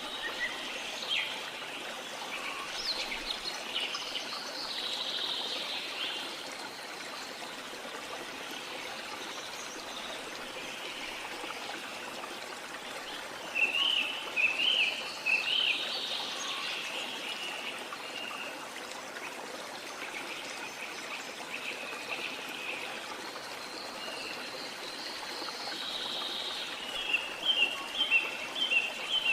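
Small birds chirping and twittering over a steady rush of water, with a burst of quick, loud chirps about halfway through and another near the end.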